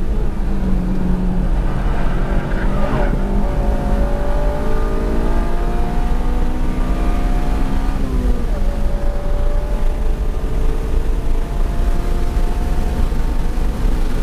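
Honda Civic Si's K20Z3 four-cylinder engine heard from inside the cabin under hard driving on track, over heavy road and tyre rumble. The revs climb steadily for about five seconds from a few seconds in, then drop sharply and hold at a steady pitch.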